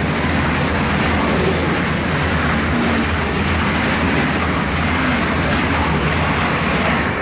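ICE high-speed electric train passing close at speed without stopping: a loud, steady rush of wheels on rail and air noise as the long set of cars goes by.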